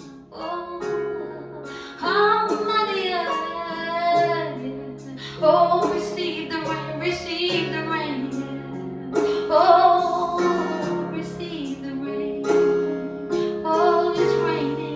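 A woman singing a gospel worship song, her voice wavering with vibrato over sustained instrumental accompaniment.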